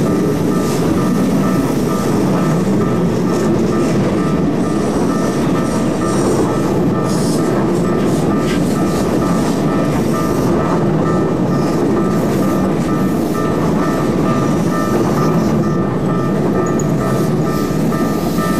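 Keikyu electric train running past at close range: a steady, loud rumble of wheels and underfloor equipment, with a steady high tone over it.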